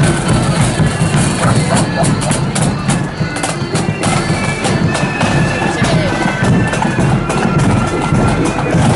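Orange parade marching band playing in the street: a held melody over rapid, steady drum strikes.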